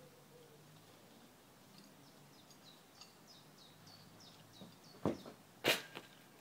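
A small bird chirping in quick succession, about four short falling chirps a second, over quiet garden ambience. Near the end come two sharp thumps about half a second apart as a football is kicked.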